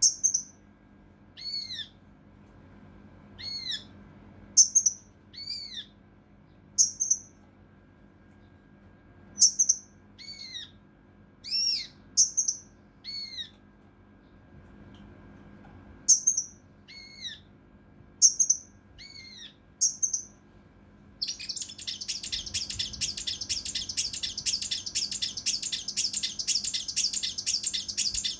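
Kinoi (cucak rante mas) calling: short, sharp, arched notes, singly or in pairs about a second apart, then about three-quarters of the way in a dense, fast, rough chatter that runs without a break.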